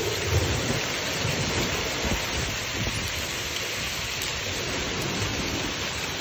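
Heavy rain with hail pelting down: a dense, steady hiss with a low rumble underneath.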